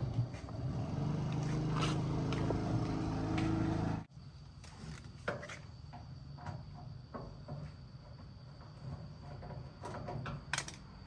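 A motor hums steadily and cuts off suddenly about four seconds in, followed by scattered light clicks and knocks.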